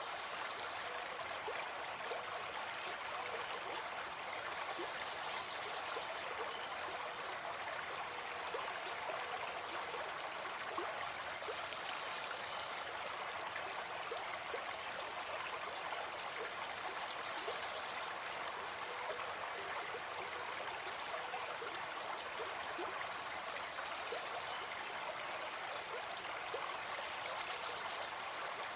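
Gentle forest stream flowing, a steady even rush of water.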